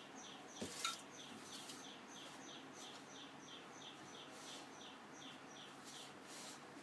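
A bird chirping over and over, short high descending notes about three a second, faint in the background. A single short knock sounds a little under a second in.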